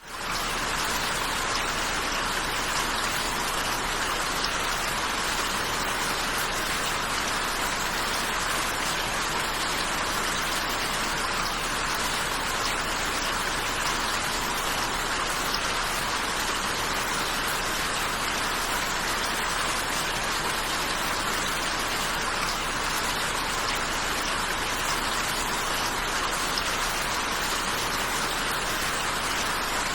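Steady rain falling, a dense even hiss of countless drops with no single drop standing out, fading in at the very start and then holding constant.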